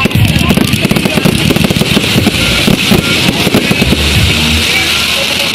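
Fireworks going off in a rapid, dense run of bangs and crackles, over loud music with a beat.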